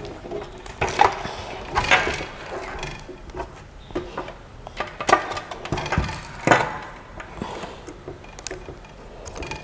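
Machine parts and packaging being handled and set down during unboxing: irregular knocks and clacks about once a second, with some rustling between.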